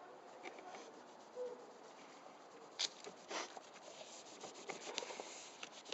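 Faint rubbing and scrubbing on a grimy old London Underground train push-button as it is cleaned by hand, with a few brief scrapes about three seconds in.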